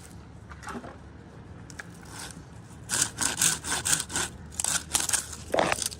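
Hand saw cutting through dead spruce wood. Quick back-and-forth strokes start about halfway through.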